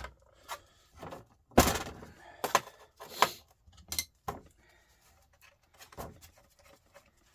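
Scattered knocks and metal clatters of tools and parts being handled on a workbench while a heavy starter motor is being taken apart, about half a dozen separate bumps with quiet gaps between.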